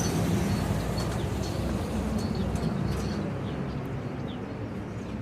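Diesel engine of a Scania-chassis Irizar i5 coach running with a low rumble, loudest in the first few seconds and slowly fading, with short bird chirps over it.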